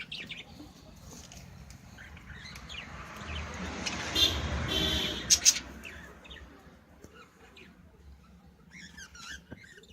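Flock of budgerigars chattering with many short, high chirps. Midway a rustling noise swells for a few seconds, with a couple of sharp clicks in it.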